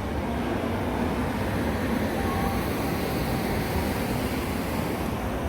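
Steady low rumbling ambient noise of an airport terminal, with no distinct events.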